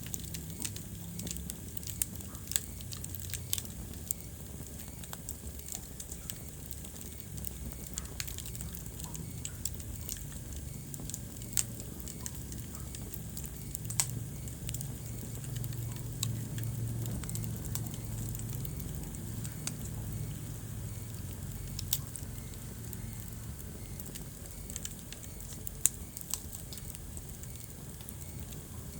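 Wood fire burning in a fireplace, crackling with irregular sharp pops over a steady low background, a few pops louder than the rest.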